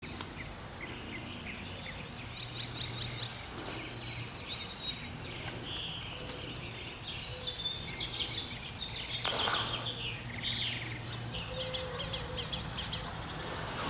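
Several small songbirds singing and chirping, a busy mix of short high chirps and quick trills, over a faint low hum. A brief hiss cuts through a little past halfway.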